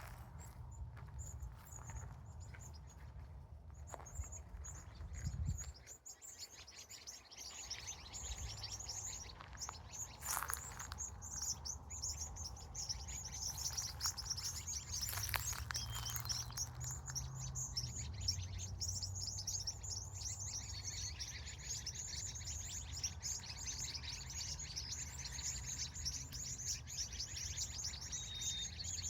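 Many small birds chirping in a dense, fast, high-pitched chatter that builds up a few seconds in and keeps going, over a low steady rumble, with a few brief sharp knocks.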